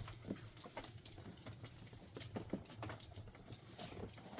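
Faint, irregular patter of small taps and clicks, several a second, over a low steady hum.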